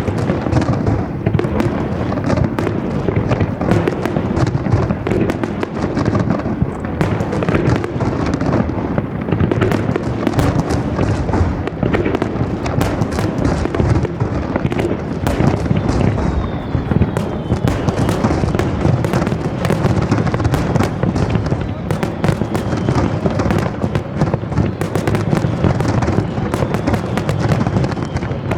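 Aerial fireworks bursting in a dense, continuous barrage: overlapping booms and crackles with no pauses, with a few faint falling whistles mixed in.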